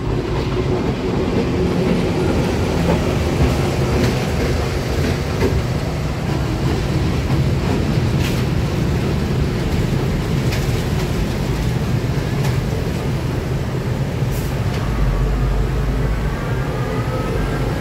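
Passenger train passing a road level crossing with a steady rumble, which gives way to motorbike traffic crossing. Near the end a heavy truck passes with a deep rumble, and engines rise in pitch as they pull away.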